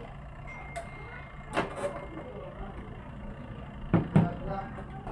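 Several sharp knocks and clatters of washing-machine parts being handled and fitted, the two loudest about four seconds in, over a steady low hum.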